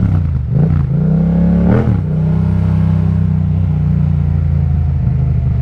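Yamaha MT-07's parallel-twin engine through an Akrapovic exhaust, accelerating through two quick upshifts, each heard as a sudden drop in pitch followed by a climb. After the second shift, about two seconds in, it settles into a steady cruise.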